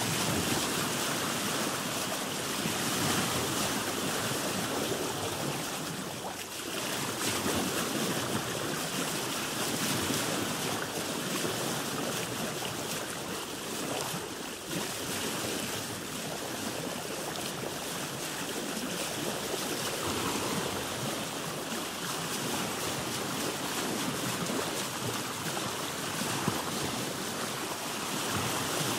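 Sea waves washing around a boat, a steady rush of water with some wind, swelling and easing gently every few seconds.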